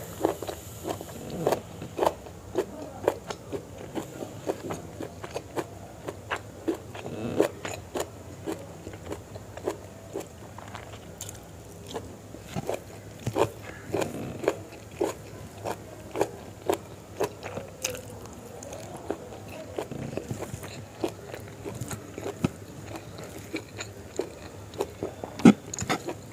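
A person chewing spicy chicken liver and gizzard curry with rice: many short, irregular wet clicks and smacks of the mouth, with a sharper, louder click near the end.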